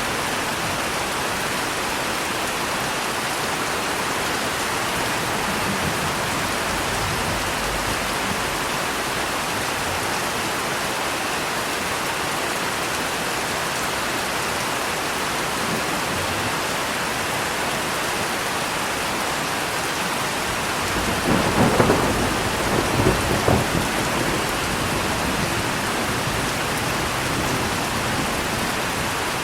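Steady rain falling, with a roll of thunder about two-thirds of the way through. The thunder is a low rumble of several peaks lasting about three seconds.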